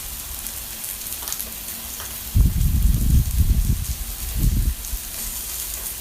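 Sliced pork belly sizzling and crackling on a hot grill pan, a steady hiss with fine pops. From about the middle, a loud low rumble lasts roughly two seconds.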